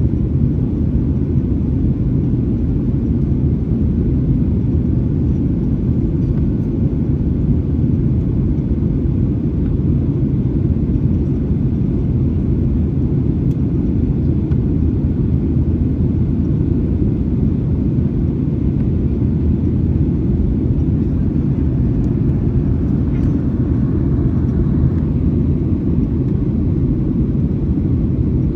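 Steady low rumble of a Boeing 737-900ER's CFM56-7B engines and airflow, heard inside the passenger cabin.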